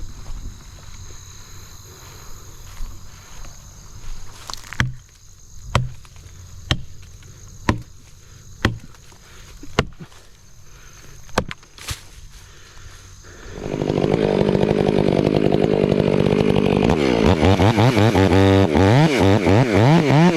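Chainsaw idling low, with a series of about seven sharp knocks roughly a second apart. Near the middle the saw is throttled up into a loud run, and its pitch then swings up and down as it revs.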